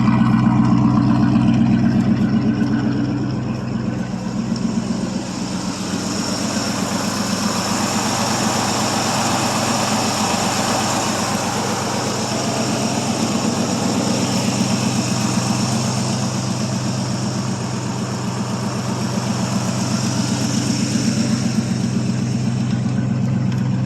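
1979 Chevrolet C10 pickup's engine idling steadily.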